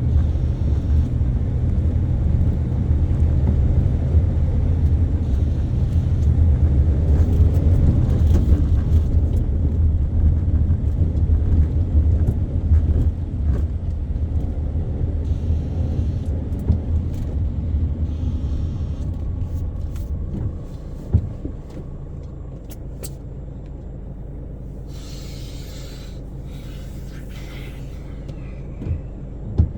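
Car driving through city traffic: a steady low engine and road rumble that drops to a quieter hum about two-thirds of the way through as the car slows or stops, with a couple of short knocks.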